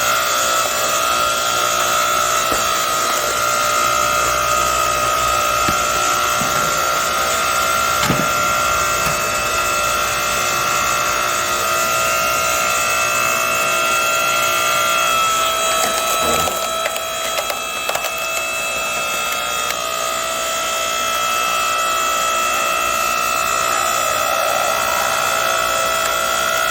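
8-ton hydraulic log splitter running with a steady motor whine as it forces firewood apart, the wood cracking and splintering, with sharper cracks about 8 seconds in and again around 16 to 18 seconds.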